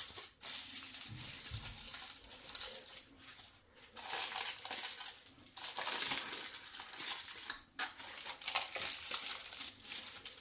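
Kitchen cooking sounds from a pot of chicken biryani on the stove: an uneven sizzling hiss that comes and goes, with a few light clinks of cookware.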